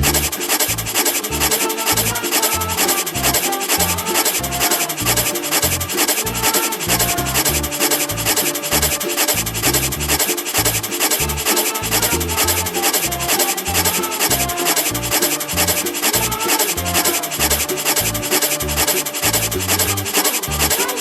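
Rapid, even back-and-forth rubbing strokes of colouring on paper, with faint background music underneath.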